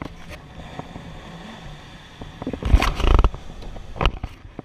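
An engine rumbling low and steady, then a loud, rough burst of revving about two and a half seconds in, with a short sharp knock near the end.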